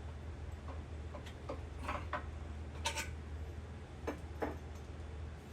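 Scattered light clicks and metal taps from hand tools being handled, at irregular spacing over a steady low hum.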